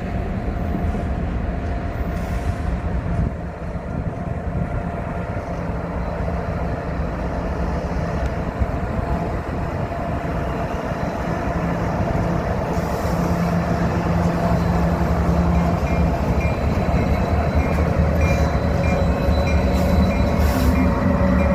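Freight train rolling by with a steady rumble of diesel locomotives and rail cars.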